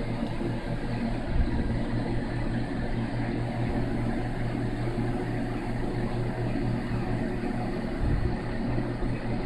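Steady low mechanical hum with a whirring haze, like an appliance or fan motor running, with two soft low bumps, one about a second and a half in and one near the end.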